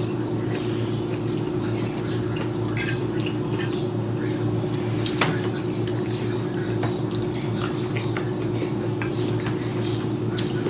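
Wet, clicky mouth sounds of chewing grilled squid, with small smacks and ticks scattered throughout, over a steady low hum.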